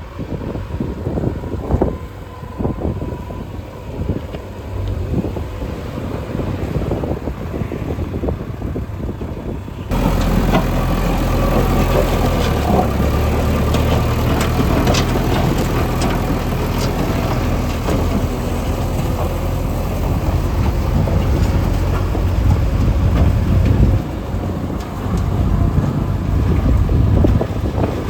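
Diesel engines of heavy road-construction machinery running, with scattered knocks and clanks. About ten seconds in, the sound abruptly turns louder and steadier, with a deep engine drone.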